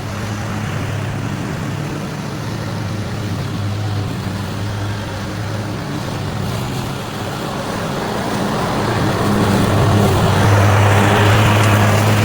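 Small gasoline engine of yard power equipment running steadily, growing louder and rougher over the last few seconds.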